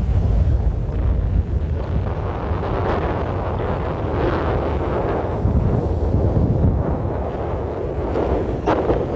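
Strong wind buffeting the microphone in gusts, a heavy rumble with swells of rushing noise that rise and fall, and a sharper gust near the end.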